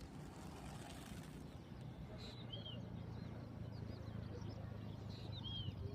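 A bird calling outdoors: a short, arched chirp twice, about three seconds apart, with fainter chirps around it. Under the calls is a low steady hum that comes up about two seconds in.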